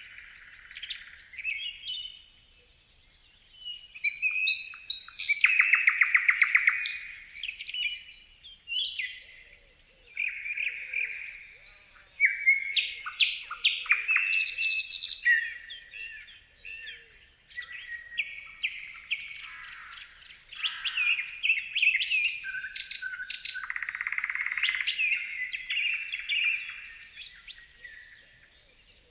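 Several small songbirds chirping and singing at once, a busy chorus of short whistles, slurred notes and fast trills.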